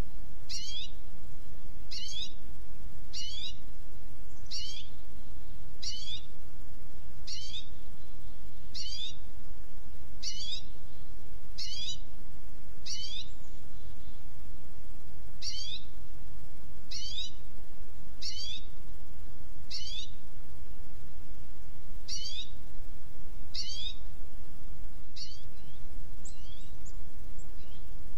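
A bird calling over and over, a short, high note slurring steeply downward, about once every second and a half, with a few short gaps, stopping near the end. A steady low rumble runs underneath.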